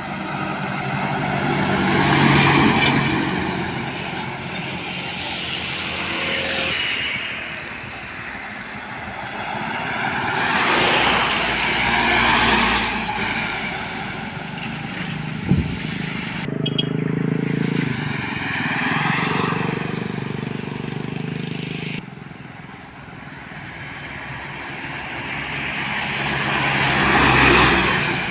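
Heavy trucks and buses driving past on a road one after another, their diesel engines swelling as each draws near and then fading. The sound changes abruptly a few times, and there is a single short knock about halfway through.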